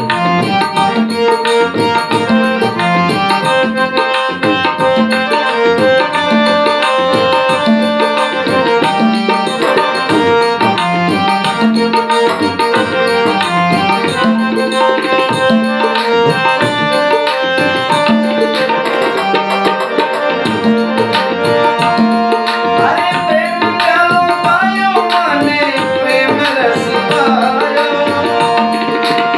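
Instrumental interlude of a Rajasthani bhajan: steady tabla drumming under held melodic notes, with a wavering melodic line near the end.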